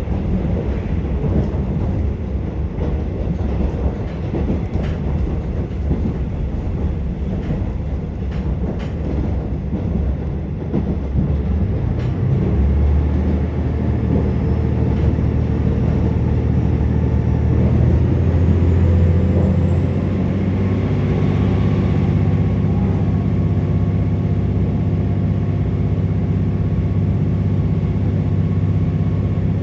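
Cabin sound of a KiHa 47 diesel railcar running on jointed track, with a few sharp clicks over the rails. About twelve seconds in the diesel engine comes on under power with a steady low drone that grows louder near eighteen seconds, while a faint high whine rises and then holds.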